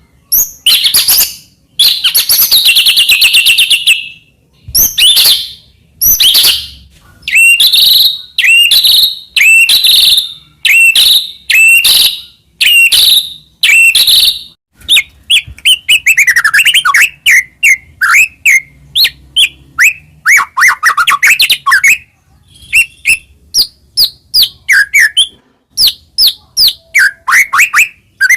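White-rumped shama (murai batu) singing a loud, varied song. It opens with a harsh buzzing trill, goes into a run of clear repeated notes about one a second, then fast chattering with falling notes, and ends in quick sharp calls.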